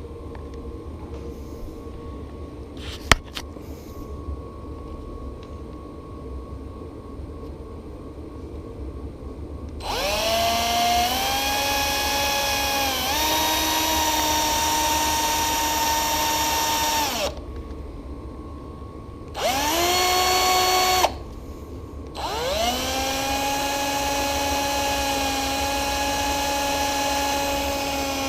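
Drill spinning a cotton bud loaded with metal polish to clean out a rusty bolt head, run in three goes: about ten seconds in for some seven seconds, briefly around twenty seconds, and again from about twenty-two seconds on, its whine rising in pitch each time it spins up. Before it starts, a low steady hum with one sharp click about three seconds in.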